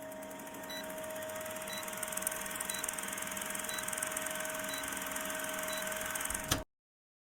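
Short high electronic beeps, about one a second, over a steady machine hum with a constant mid-pitched tone; the sound cuts off suddenly near the end.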